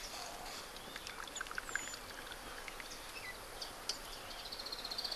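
Wild birds calling outdoors: scattered short chirps and falling whistles, with a rapid high trill near the end, over faint steady background noise.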